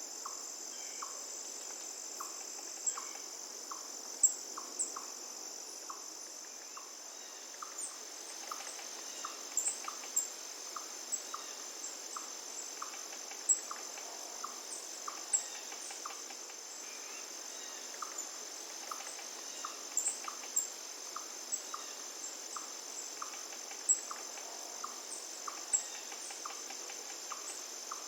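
Forest ambience: a steady high insect trill of crickets runs throughout, with a short call repeating about every half second and scattered high bird chirps, over the even rush of a flowing river.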